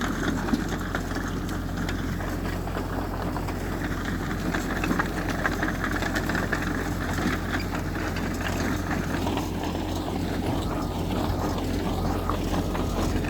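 Heavy diesel earthmoving machinery running steadily, a low engine drone with small knocks and rattles over it.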